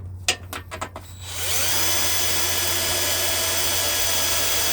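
A few light clicks, then an electric drill spins up about a second in with a rising whine and runs steadily, drilling a hole in a thin aluminium underbody shield.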